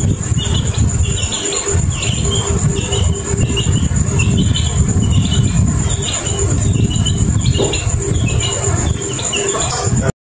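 Insects trilling: a steady high drone with short chirps repeating about three times every two seconds, over a low rumbling noise. It cuts off suddenly near the end.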